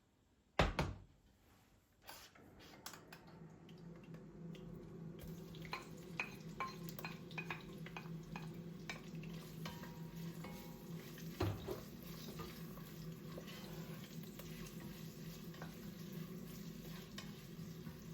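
Kitchen work: a single knock, then a utensil clinking and stirring in cookware, with light sizzling over a steady low hum.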